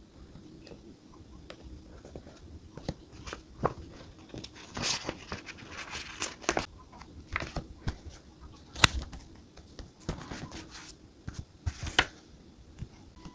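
Desk journaling handling sounds: paper and sticker sheets rustling, with scattered sharp clicks and taps of small objects on the desk.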